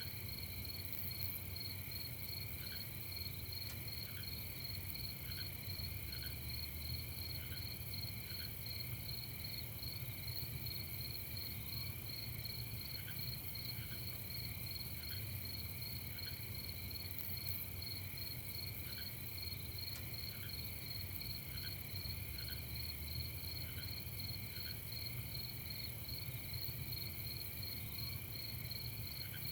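Night chorus of crickets, a continuous fast-pulsing chirping with no let-up, joined now and then by short, lower single chirps from another caller, over a steady low rumble.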